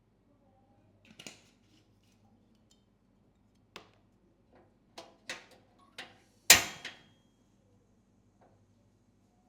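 A string of sharp, irregularly spaced clicks and knocks from objects being handled, the loudest about six and a half seconds in.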